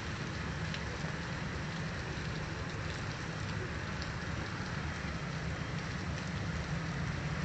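Fairly heavy rain falling steadily, a continuous even hiss with a steady low rumble underneath and a few faint drip ticks.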